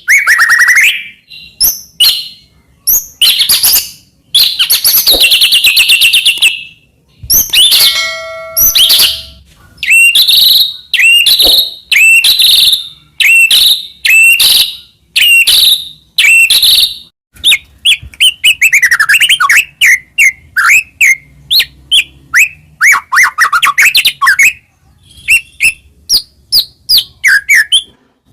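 White-rumped shama (murai batu) singing loudly and continuously: a long run of varied phrases with clear whistled notes, a few harsh rasping bursts, and sweeping whistles in the middle, ending in quick runs of short repeated notes.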